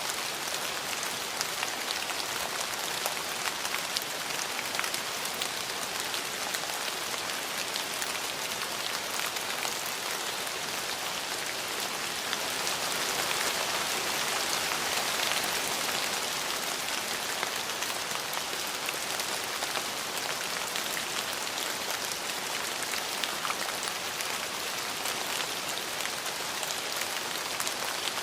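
Steady rain falling on surfaces, a dense hiss with many small drop ticks, swelling slightly about halfway through.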